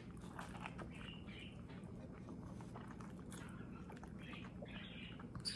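Faint chewing of a protein wrap filled with asparagus, bologna and cheese: soft mouth clicks through the chewing, with a sharper click near the end.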